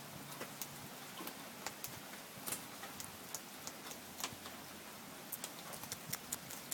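Cockatoo's beak cracking and nibbling seeds off a honey-bound seed stick: irregular faint sharp clicks and crunches, a few a second.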